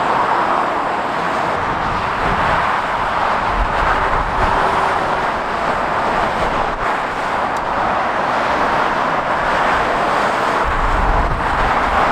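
Steady motorway traffic noise: tyres and engines of passing lorries and cars. Deeper rumbles swell twice, about four seconds in and again near the end, as heavy vehicles go by close.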